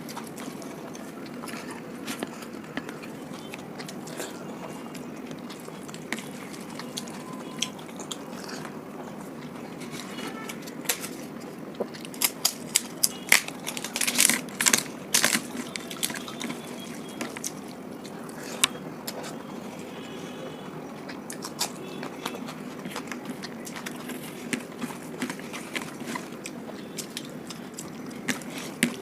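Wet mouth sounds of eating rice and spicy egg curry: sticky chewing with short sharp clicks and smacks, coming thick and loud for a few seconds around the middle.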